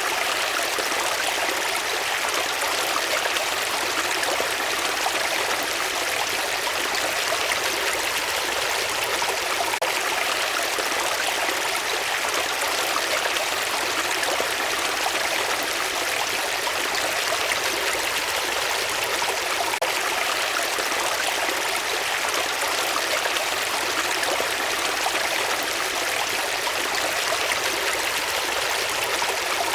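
A stream of water flowing steadily: an even, unbroken babble of running water, mostly mid and high in pitch with little deep rumble.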